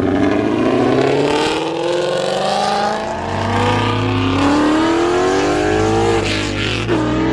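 Lexus car accelerating hard away, its engine pitch climbing steadily for several seconds, dropping at an upshift about six seconds in, then climbing again.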